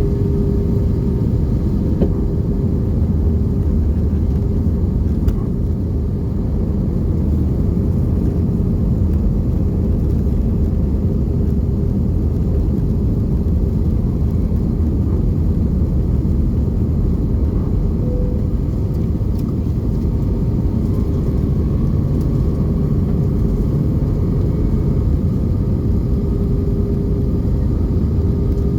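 Airbus A320 cabin noise: a steady, loud rumble of the jet engines and airflow, with a steady hum running through it.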